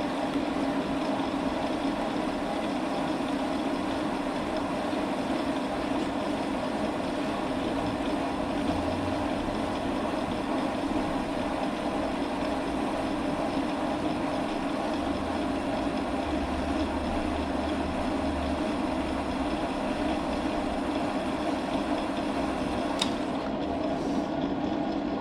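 Metal lathe running steadily, its motor and gearing humming under power, with one sharp click near the end.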